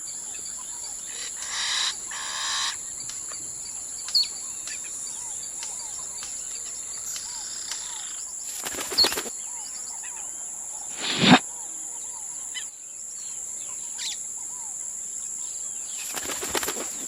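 Forest ambience with a steady high insect drone and small chirps. It is broken by a short flutter of wings about two seconds in and by a few sharp snaps, one in the middle, a louder one a couple of seconds later and a quick cluster near the end. The snaps fit the snapping courtship display of a male superb bird of paradise.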